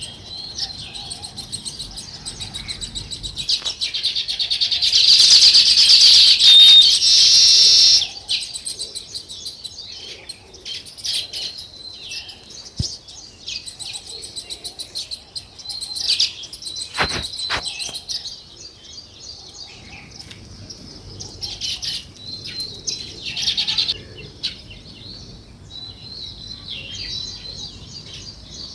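A flock of small nesting birds, sparrows or weaver birds as the uploader has it, chirping continuously in quick high notes. The chirping swells to its loudest and densest for a few seconds near the start, stops abruptly, then carries on as more scattered chirps.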